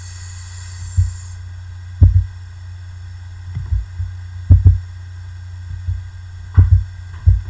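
Irregular dull thumps, about ten, of a pen and hand knocking on a desk while writing, over a steady low hum.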